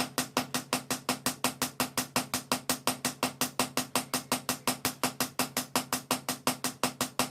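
Mechanical power hammer forging car leaf-spring steel: fast, evenly spaced hammer blows, about five or six a second, steel striking steel.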